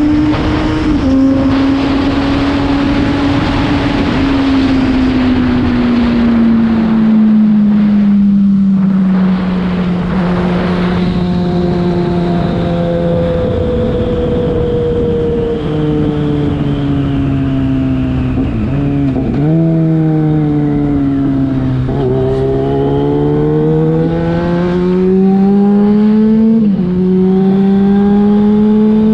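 Yamaha FZ6's inline-four engine through a LeoVince aftermarket exhaust while riding. The engine note falls slowly for about the first ten seconds, then climbs and drops back several times as the gears change, over a steady rush of wind.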